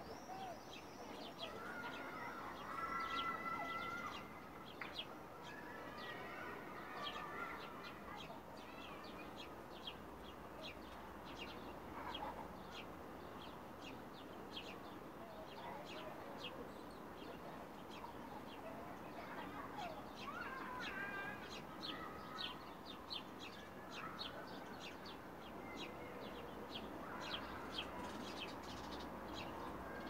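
A chorus of small birds chirping rapidly and continuously, with a few longer calls mixed in.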